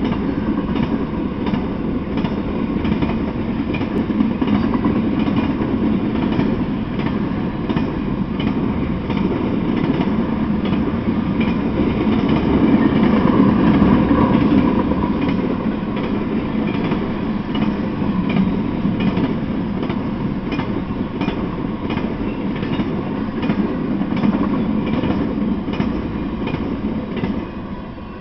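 Intermodal freight train of trailer-carrying flatcars rolling past: a continuous rumble with wheels clicking repeatedly over the rail joints. The sound begins to fade near the end as the tail of the train goes by.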